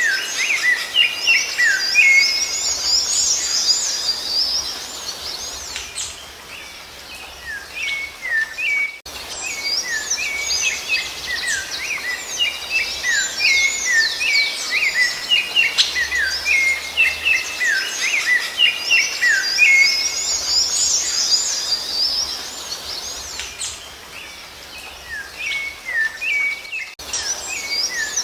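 Rufous-bellied thrush (sabiá-laranjeira) singing a continuous run of quick whistled and twittering phrases, with two brief breaks in the song.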